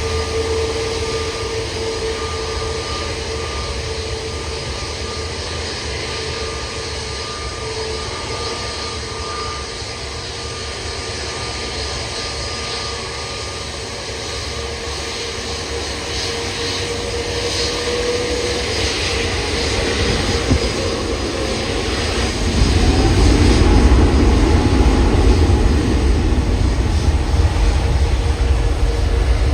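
Jet airliner engines: a steady whine over a low rumble, which grows much louder and deeper about three quarters of the way through.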